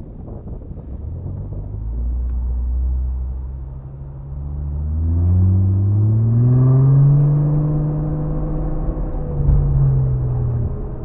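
Off-road vehicle engine under load, its pitch climbing about halfway through as it accelerates, holding high for a few seconds, then dropping near the end.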